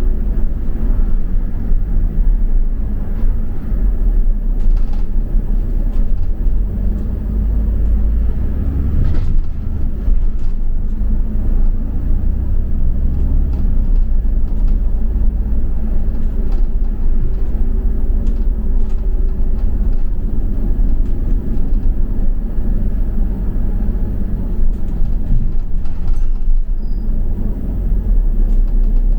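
London double-decker bus running along the road, heard from on board: a steady low engine and road rumble with occasional faint rattles and knocks from the bus body.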